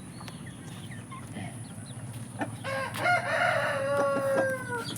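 A rooster crowing once, starting a little under three seconds in and lasting about two seconds, the call sagging in pitch at its end.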